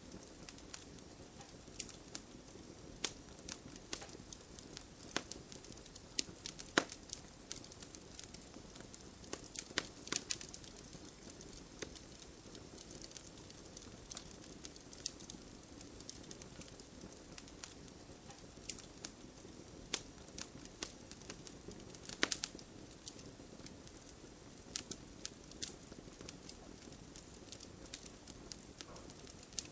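Wood fire crackling, with irregular sharp pops and snaps, a few of them louder, over a steady soft hiss of light rain.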